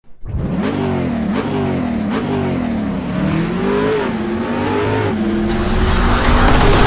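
Engine revving repeatedly, its pitch rising and falling about once a second, then settling to a steadier, louder run near the end.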